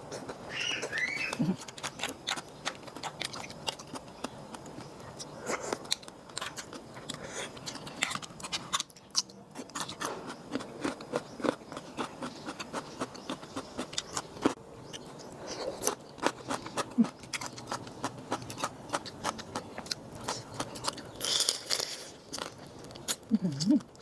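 A person eating close to the microphone: steady chewing with many short crunches and wet clicks, and a brief small vocal sound near the start and again near the end.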